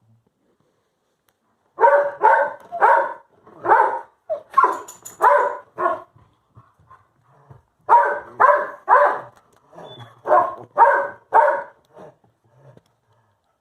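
A dog barking in two runs of short, evenly spaced barks, about seven then, after a pause, about six more.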